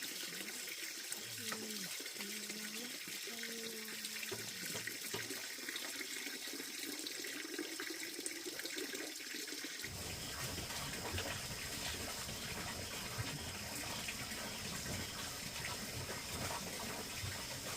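Running water, a steady hiss. About ten seconds in, a deeper rumble joins it.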